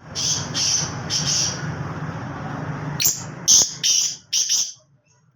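Black francolin (kala teetar) calling: a run of three harsh, high notes, then after a pause a second run of about four notes, over a steady background hiss.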